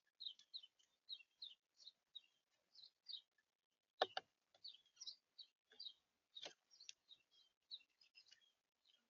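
Faint, quick chirps from small birds at a winter feeder, two or three a second. Two sharp clicks, about four and six and a half seconds in, are the loudest sounds.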